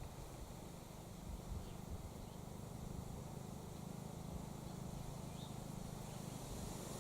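Quiet garden ambience: a steady low hum, with a few faint, short bird chirps.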